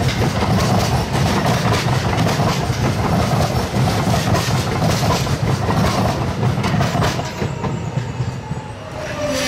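Electric light rail train running on the track, with a steady rumble and repeated clicks from the wheels, the sound dropping away near the end.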